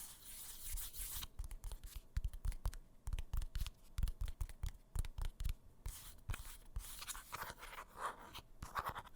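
Fingertips tapping rapidly and irregularly on a microphone, like typing, each tap giving a soft low thud with a click, with some scratchy rubbing on the mic.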